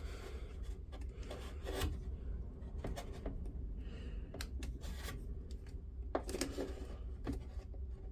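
Hand-handling sounds as carbon brushes and a brush cover are fitted into a Bosch GSH538D rotary hammer: scattered light clicks and short scrapes of plastic and metal parts, over a steady low hum.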